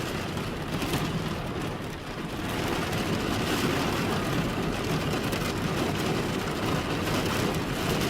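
Steady heavy rain falling, mixed with the steady low rumble of a vehicle, dipping briefly about two seconds in.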